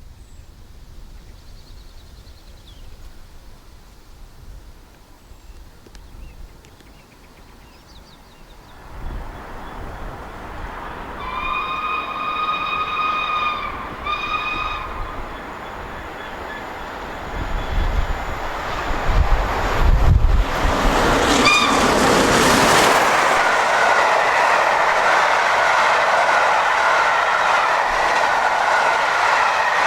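LNER A1 Pacific steam locomotive 60163 'Tornado' approaching at speed with a 13-coach train and sounding its whistle, a long blast and then a short one, about 11 seconds in. The train then passes close by, and the loud rushing and rattle of locomotive and coaches carries on to the end.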